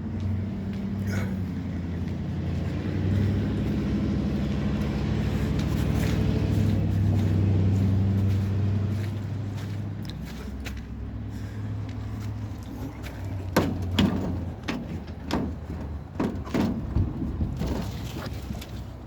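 A steady low hum like a running engine or machine, which fades after about ten seconds, followed near the end by a string of sharp knocks and clacks.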